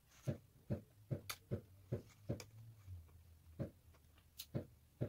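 Close-up chewing of a mouthful of chicken burger: soft, wet mouth sounds about two to three times a second, pausing briefly about two and a half seconds in. There are a couple of sharper clicks along the way.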